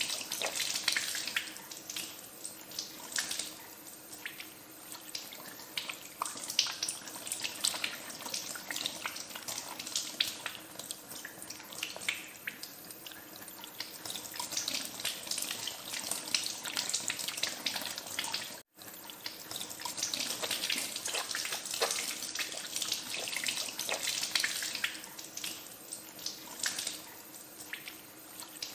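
Tap water running into a sink as hands are washed under it: a steady splashing stream with many small splashes and drips. The sound cuts out for an instant about two-thirds of the way through.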